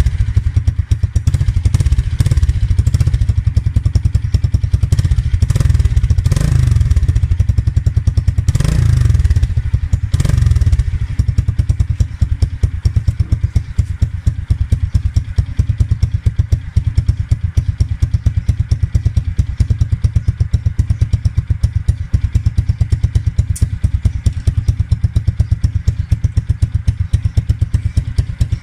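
Modenas Kriss 110's single-cylinder four-stroke engine running through an aftermarket Apido Racing exhaust. It is revved in short blips several times in the first ten seconds or so, then settles to an idle with a steady, even beat of exhaust pulses.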